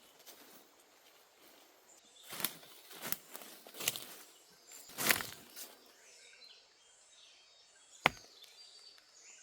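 Four chopping strokes on wood, roughly a second apart, then a single sharp crack near the end.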